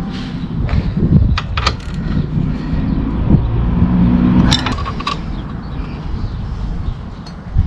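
Metal clinks and taps of tools and bolts while a motorcycle side stand is being fitted, a few sharp clicks about a second and a half in and a cluster just before the middle, over a steady low rumble.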